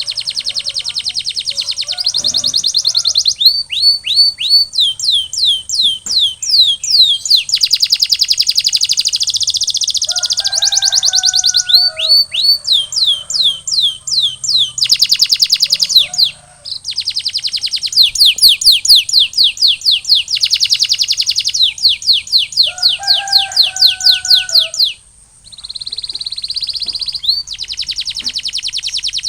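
Canary singing: long rolling trills of fast, evenly repeated high notes, with brief pauses twice.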